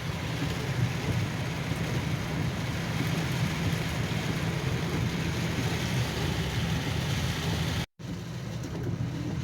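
Heavy wind-driven rain pelting a vehicle, heard from inside the cab as a steady hiss over a low engine hum. Near the end it cuts off abruptly and comes back quieter.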